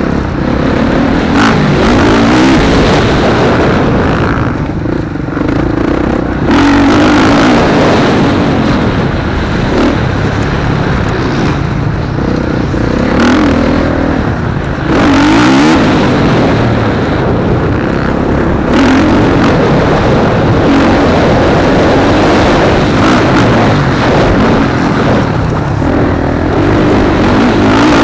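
Motocross bikes racing, their engines revving up and falling back again and again as they accelerate and shift through the track, loud and overlapping.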